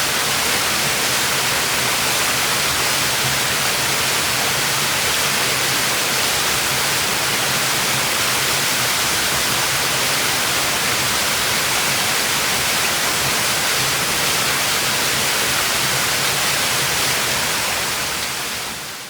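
Waterfall: a steady, even rush of falling water, fading out in the last second or so.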